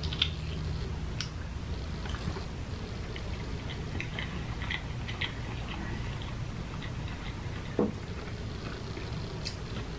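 A person chewing and biting into chicken parmesan, with small wet mouth clicks scattered throughout over a steady low hum. One short thump about eight seconds in.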